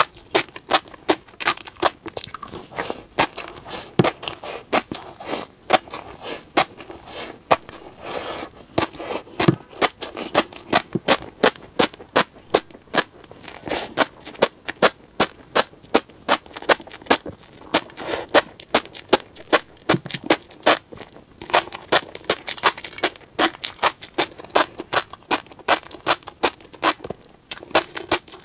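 Close-miked chewing of tobiko (flying fish roe), the tiny eggs popping in the mouth as a dense run of sharp crackling clicks, several a second.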